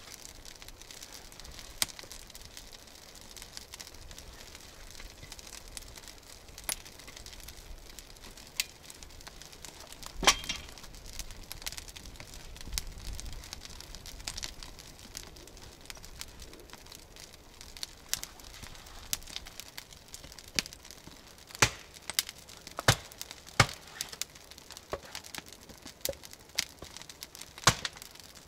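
Small campfire of birch bark and dry aspen crackling, with irregular sharp snaps and pops that come louder and more often in the second half.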